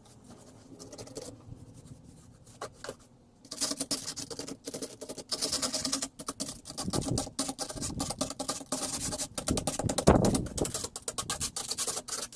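A snow shovel scraping and crunching through packed snow in irregular strokes, quieter at first and busier after about three and a half seconds, with a louder scrape about ten seconds in.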